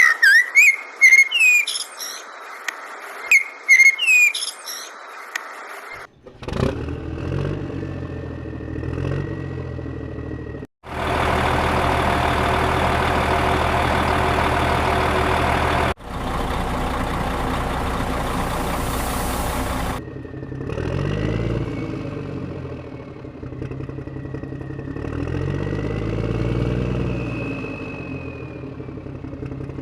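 High gliding whistle-like chirps for the first few seconds. Then heavy diesel engines of a backhoe loader and tipper truck run and rev up and down, with a loud steady rush of noise through the middle stretch.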